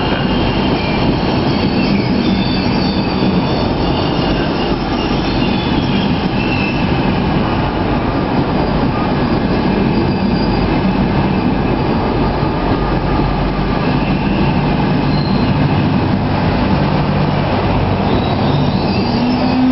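Passenger train coaches passing a platform at speed: a steady loud rush and rumble of wheels on rail, with thin high whining tones in the first few seconds.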